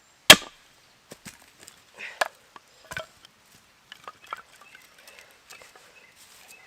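Seasoned ash firewood being split: one hard, sharp chopping strike just after the start, then a few lighter knocks and small clatters of wood.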